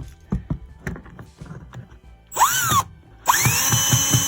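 Power drill driving fasteners to anchor the carpet down: a short burst that rises and falls in pitch, then a longer run that speeds up and holds steady. A few light knocks come before it.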